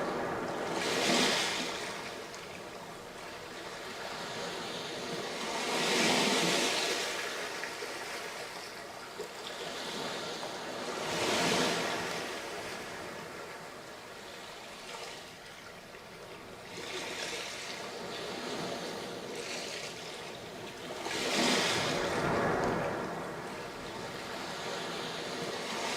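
Waves breaking on a sandy beach: a steady rush of surf that swells with each wave, about every five seconds.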